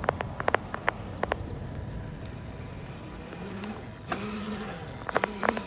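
A small dirt bike's motor running, its pitch rising and then falling a little past the middle, with scattered sharp clicks and knocks near the start and the end.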